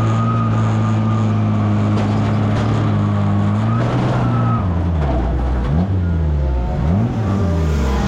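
1300cc stockcar engine at racing revs. It holds a steady note for about four seconds, then drops and climbs again several times as the throttle is lifted and reapplied through the corners.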